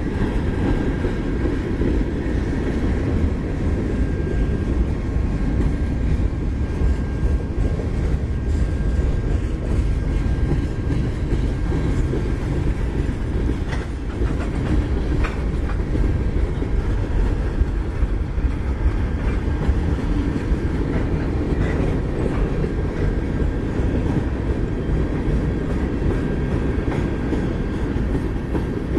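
Freight cars of a passing manifest train rolling along the rails: a steady, dense rumble of steel wheels with a few sharp clicks near the middle. A faint thin high whine runs through roughly the first ten seconds.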